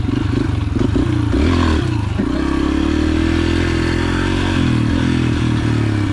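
Yamaha TT-R125's single-cylinder four-stroke engine running under throttle while ridden, the revs rising and falling over the first two seconds, then holding fairly steady.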